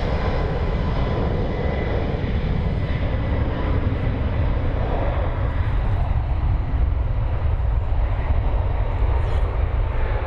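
Jet airliner engines running at high thrust, a steady deep rumble with a faint whine on top: the SAUDIA Airbus A321neo's CFM LEAP-1A turbofans during the takeoff roll it goes on to reject.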